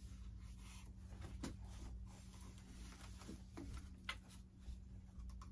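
Faint scratching and light irregular clicks of a tool digging a channel through the styrofoam of a foam RC jet, over a steady low hum.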